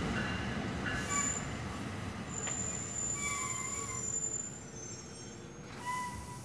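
Double-deck NJ Transit commuter train rolling into the station and slowing, with a low rumble that gradually fades. Several high-pitched squeals from the wheels sound over it, the longest held steady for about two and a half seconds.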